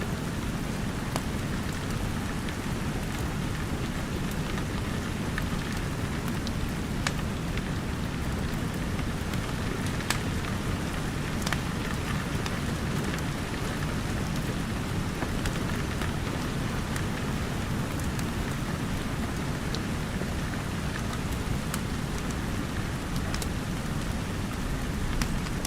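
Steady rain falling as an even hiss with a deep low end, mixed with scattered sharp crackles from a wood fire.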